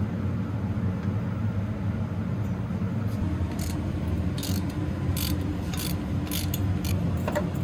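A steady low mechanical hum, with scattered light clicks and taps from about three seconds in.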